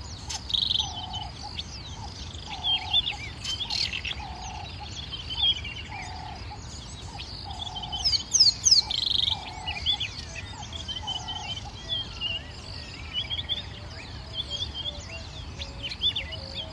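Birdsong: many small birds chirping and trilling, while one bird repeats a low note about once a second; in the last few seconds a quicker series of slightly lower notes takes over.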